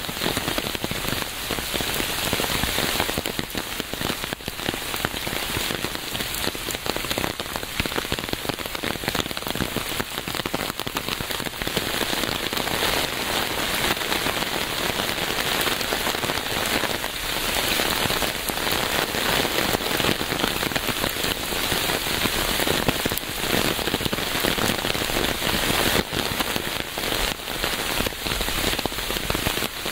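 Steady rain falling on a hard surface, dense patter with individual drops.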